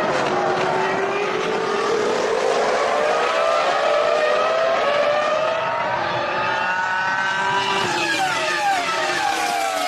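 Formula One cars' 3.0-litre V10 engines running at high revs, the pitch climbing slowly for several seconds, then dropping in a quick series of falls near the end as the revs come down.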